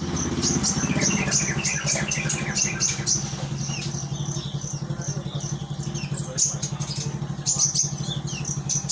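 A kolibri ninja sunbird singing rapid high chirps and short trills, with a run of lower falling notes in the first few seconds. Under it an engine, likely a motorcycle, idles steadily with a fast, even pulse.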